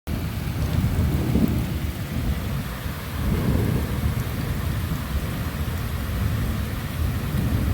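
Thunder rumbling low and without a break, swelling about a second and a half in and again about three and a half seconds in, over steady rain.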